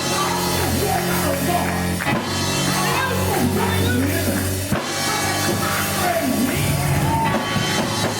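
Live band music with a drum kit, guitar and a sustained bass line whose notes change every couple of seconds.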